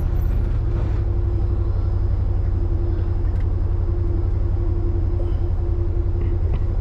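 Vehicle engine running steadily, a low rumble with a constant hum over it.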